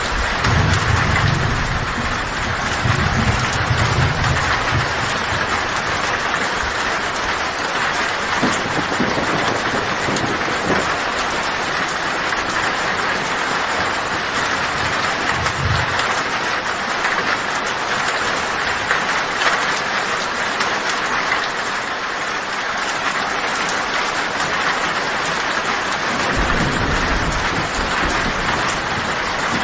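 Heavy rain drumming steadily on a tin (corrugated metal) roof. Low thunder rumbles roll in during the first few seconds, briefly around the middle, and again near the end.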